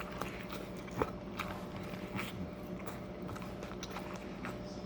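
Close-up chewing and biting of a meat quesadilla, a run of small irregular wet clicks and mouth noises over a steady low hum, with one sharper click about a second in.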